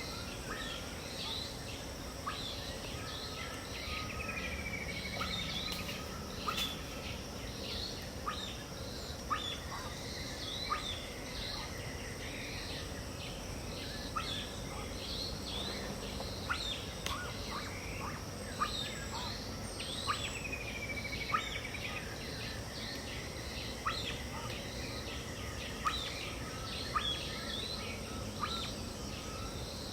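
Dawn chorus of many birds in the Brazilian Pantanal: dense short chirps and calls throughout, with a swooping whistle that dips and rises heard twice. A steady high hiss of insects runs underneath.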